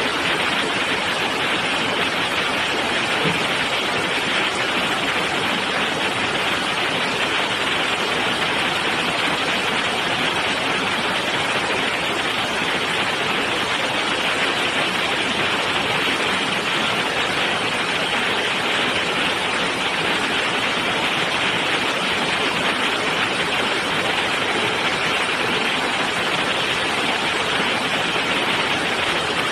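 Heavy rain pouring down in a steady, unbroken hiss, with no thunder.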